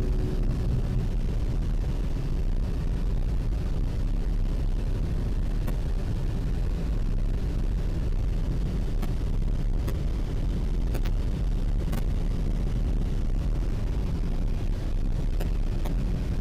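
Steady low rush of wind and airflow in a light aircraft's cockpit in flight, with a few faint clicks.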